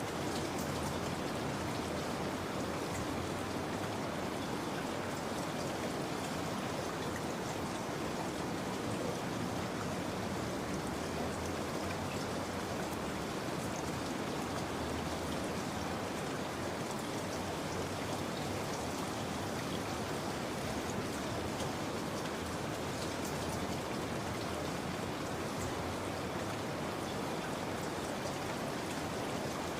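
Steady rain falling, an even hiss with the patter of scattered drops and no change in intensity.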